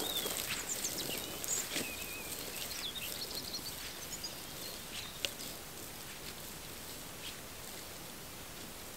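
Small birds chirping and whistling in short phrases over a steady outdoor hiss, with a few soft rustling steps; the birdsong thins out after about four seconds, leaving only the hiss.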